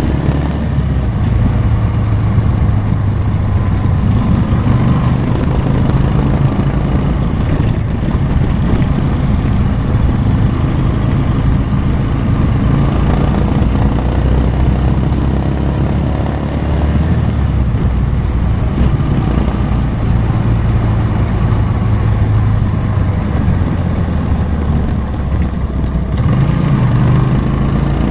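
Motorcycle engine running while riding at low road speed, its note rising and falling a little with the throttle, under a steady haze of wind and road noise.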